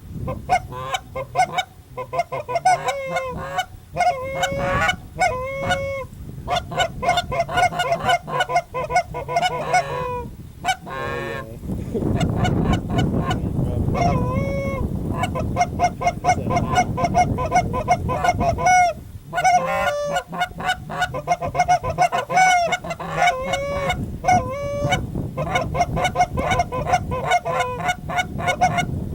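Geese honking and clucking: a dense run of rapid, overlapping calls, many breaking from a low note up to a higher one, kept up almost without pause, from goose calls being worked to bring an approaching flock in.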